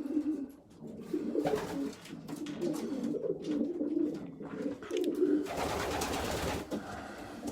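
Several domestic pigeons cooing together, overlapping and continuous. About five and a half seconds in, a rushing noise lasts for about a second.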